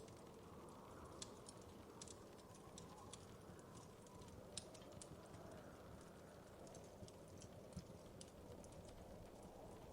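Faint crackling of a wood fire: irregular small pops and snaps over a soft, steady low hiss.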